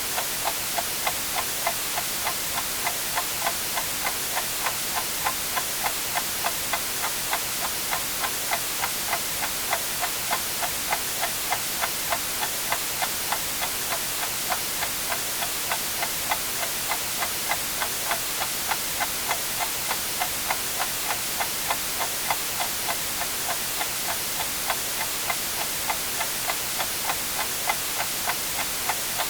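Clock ticking evenly, about two ticks a second, over a steady white-noise hiss.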